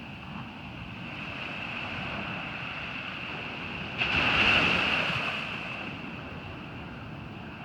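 Ocean surf at a beach: a wave breaks and washes in about halfway through, swelling and then fading over a couple of seconds, over a steady background of surf. A steady high thin whine runs underneath.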